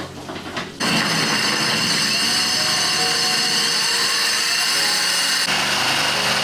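An electric power tool starts abruptly about a second in and runs steadily at full speed with a high whine, typical of a drill.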